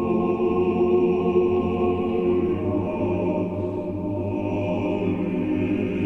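Choral music: voices holding long sustained chords, the harmony shifting about two and a half seconds in.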